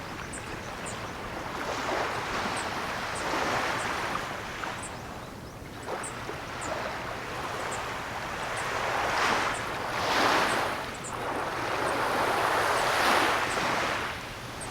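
Ocean surf: waves breaking and washing up the shore in repeated swells. The biggest surges come a little past the middle and near the end.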